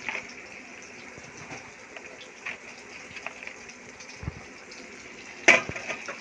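Tofu deep-frying in hot oil in a wok: a steady sizzle with scattered small crackles and knocks, and one loud sharp clank about five and a half seconds in.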